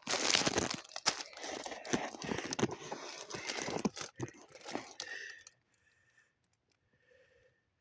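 Dense crinkling, rustling noise with scattered clicks, stopping suddenly about five and a half seconds in.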